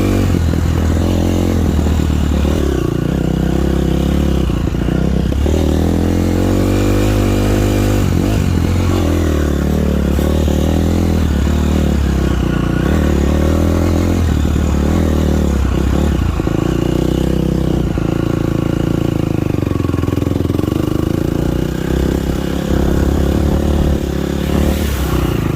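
A motocross dirt bike engine, loud and revving up and easing off again and again as the bike is ridden around the track.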